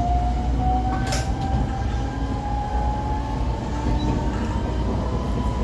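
125 series electric railcar running, its motor whine slowly rising in pitch as it gathers speed over a steady low rumble of wheels on track. A single sharp click about a second in.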